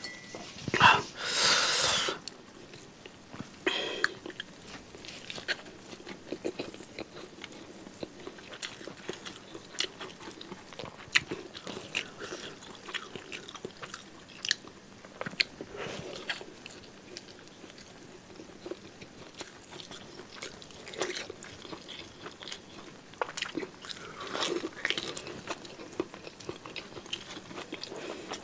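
Close-up mouth sounds of a person chewing a mouthful of rice and beef tongue: wet smacking and crunching with many small clicks. A short loud hiss comes about a second in.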